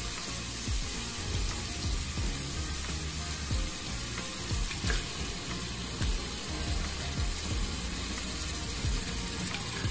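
Spiced masala sizzling as it fries in a cooking pot, a steady hiss with scattered low thumps, while marinated mutton is added to it.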